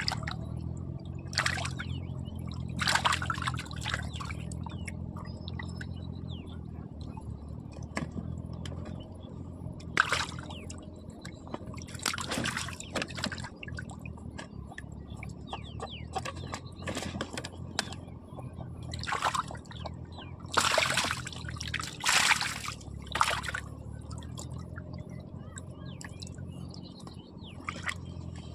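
Water splashing and sloshing in short bursts, about eight times, over a steady low hum; the splashes are most frequent near the end.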